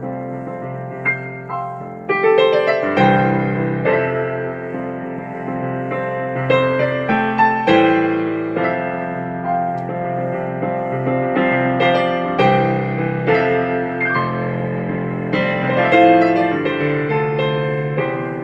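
Piano music: struck notes and chords played in a steady flowing line throughout.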